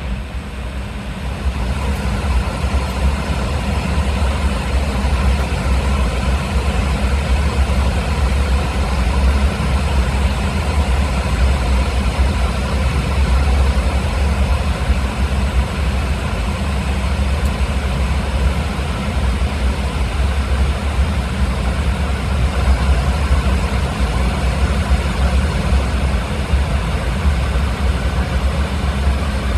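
Airbus A320's CFM56 turbofan engines running steadily, heard from inside the cabin as a constant deep rumble with a hiss above it.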